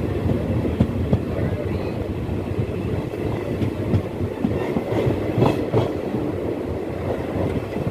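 Coach of a moving passenger express train running along the track, its wheels rattling over the rails with a steady rumble, heard from the open coach door.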